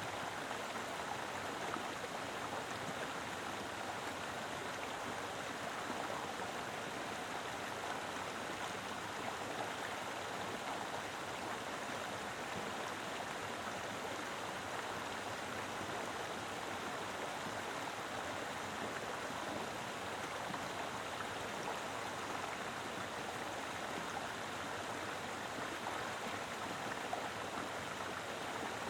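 Mountain river flowing over rocks: a steady, even rush of water with a light gurgle, no change in level throughout.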